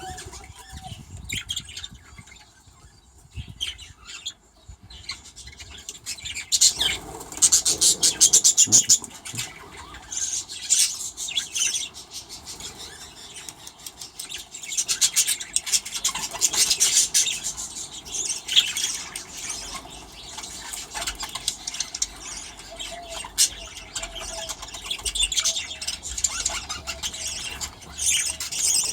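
A flock of budgerigars chattering and chirping continuously. It is sparser for the first few seconds, then busier.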